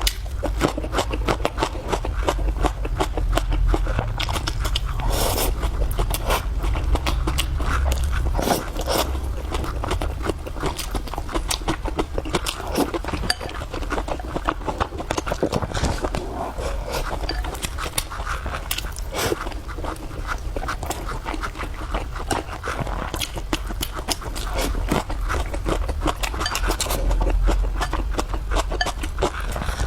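A person eating close to the microphone: steady chewing and biting with many small irregular clicks, smacks and crunches.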